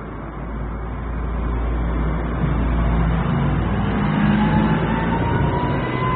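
A motor vehicle passing close by on a street, its engine rumble swelling over the first few seconds and easing slightly near the end, with a faint rising whine in the last two seconds.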